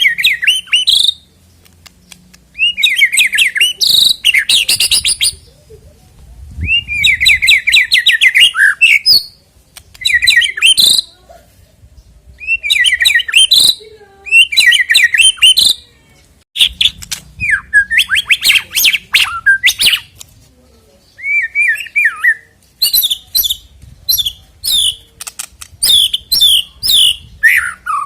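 White-rumped shama (murai batu) singing loudly: varied phrases of clear whistles, fast trills and rapid repeated notes in bursts of one to three seconds with short pauses between them. It is a song meant as a lure to provoke other shamas into singing.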